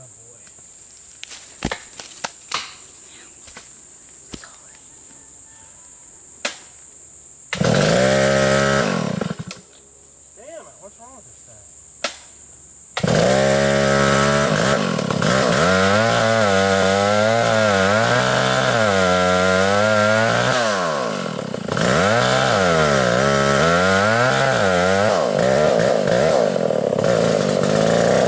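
Stihl 056 two-stroke chainsaw started: it runs for about two seconds and dies, then starts again about five seconds later and keeps running, revving up and down over and over, with a brief dip about eight seconds after it catches.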